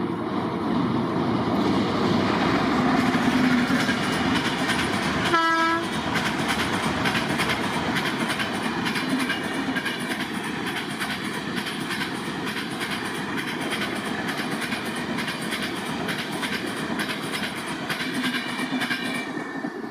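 A train passing close by at speed: a loud rushing noise with wheels clattering over the rail joints. A single short horn note sounds about five seconds in.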